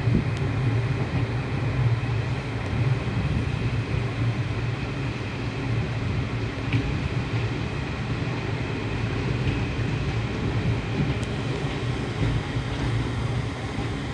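Steady low rumble of a passenger train running at speed, heard from an open coach door as the wheels roll over the track.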